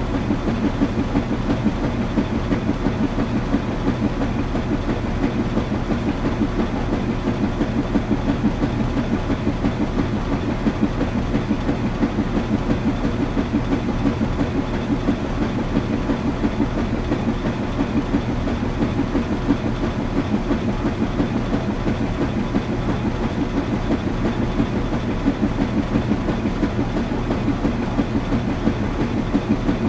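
Washing machine running steadily: a low mechanical rumble with a low hum and a fast, even rhythm that does not change.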